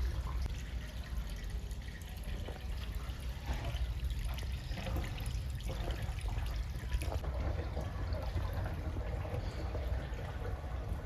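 Soapy water draining out of the wash tub of a Mabe 13 kg twin-tub semi-automatic washing machine, a steady trickling and pouring flow.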